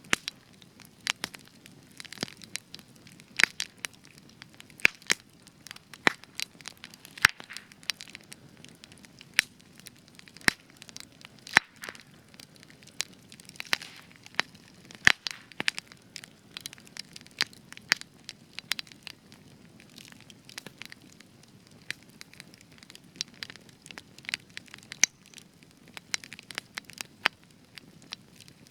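Spruce wood campfire burning with frequent sharp, irregular crackles and pops over a faint low hiss of the flames; the resin-rich spruce gives the extra crackling.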